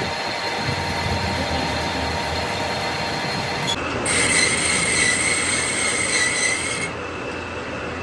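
Workshop metalworking machinery running steadily on a metal part. From about four seconds in, a high-pitched metallic squeal joins it for about three seconds and then cuts off suddenly.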